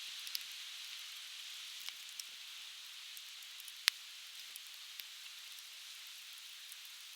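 Conifer firewood crackling with scattered sharp pops, the loudest about four seconds in, over the steady rush of a flowing stream.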